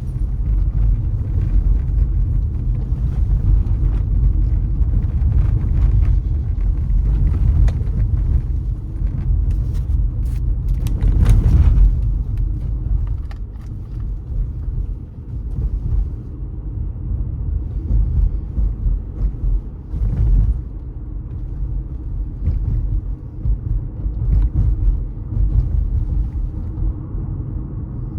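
A car driving on city streets: a steady low rumble of engine and road noise. About ten seconds in the noise swells louder for a couple of seconds, then settles back.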